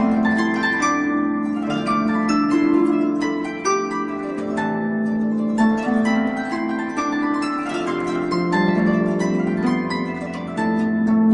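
Instrumental passage of a harp: a run of quick plucked notes ringing over held low notes, with no singing.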